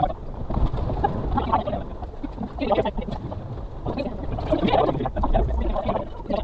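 Cab of a 660cc Suzuki Carry kei truck crawling over rough off-road ground: irregular knocks, creaks and rattles over a low engine drone.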